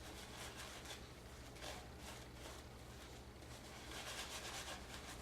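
Silvertip badger shaving brush painting lather onto the face, with faint wet brushy rubbing in quick repeated strokes that grow a little louder about four seconds in.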